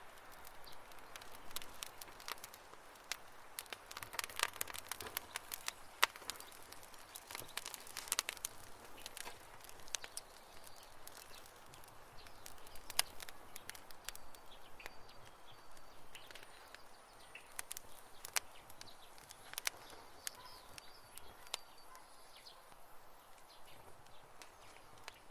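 Wood campfire crackling, with irregular sharp pops and snaps over a soft hiss, busiest in the first third.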